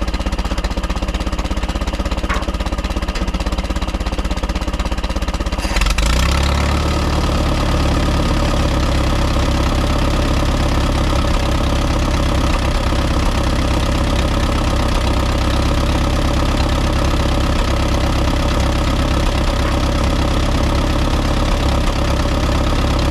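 Allis-Chalmers WD45 tractor's four-cylinder gasoline engine running at idle after sitting for years. About six seconds in it gets louder and heavier, then runs on steadily.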